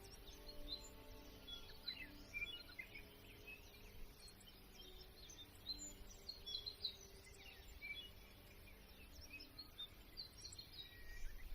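Faint birds chirping in a scattered, continuous chorus of short high calls over a soft background hiss.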